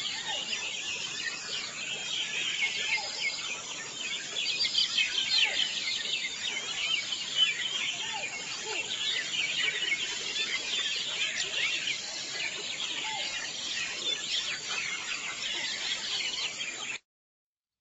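Many birds chirping at once, a dense, continuous chorus of short, overlapping high chirps, cutting off abruptly about a second before the end.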